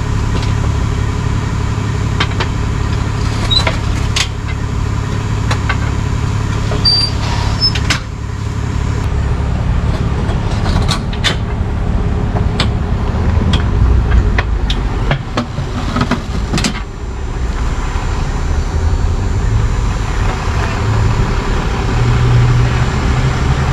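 Tow truck engine running steadily, with scattered sharp clicks and knocks over it, most of them in the middle of the stretch.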